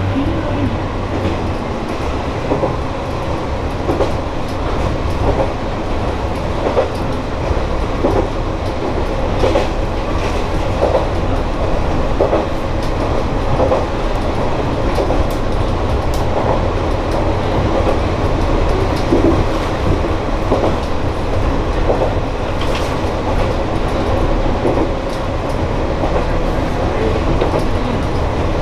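Kanto Railway Joso Line diesel railcar running along the track, heard from inside the car behind the driver's cab: steady engine and running noise with the wheels clicking now and then over rail joints.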